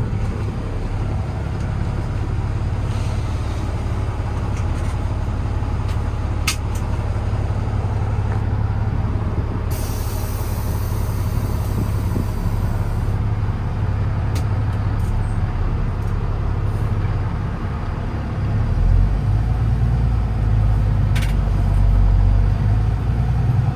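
Paccar PX-6 6.7-litre diesel engine of a Kenworth T370 running steadily. About ten seconds in, a hiss of air from the truck's air-brake system lasts about three seconds. Near the end the engine gets louder.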